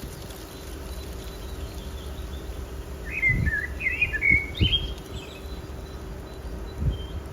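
A songbird sings one short warbling phrase of chirps about three seconds in, over a steady low outdoor rumble broken by a few dull low thumps.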